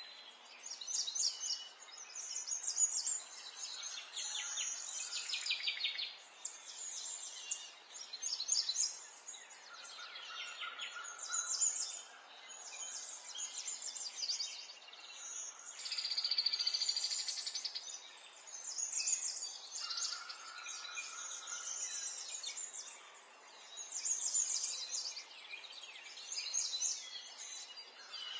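Several birds chirping and singing, one phrase after another, with short trills and rapid chirp series, over a soft steady background hiss.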